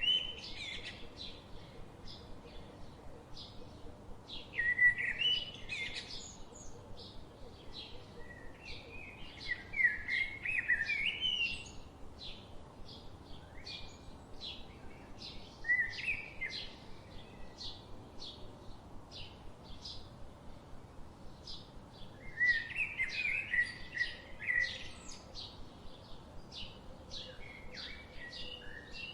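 Forest birds singing: a steady run of short high chirps, two or three a second, with louder warbling song phrases breaking in every few seconds.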